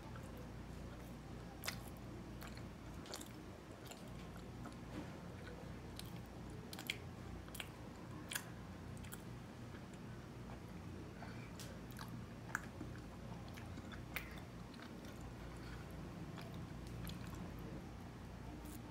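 A person chewing a soft, cream-filled glutinous rice cake, faint, with scattered sharp mouth clicks at irregular intervals.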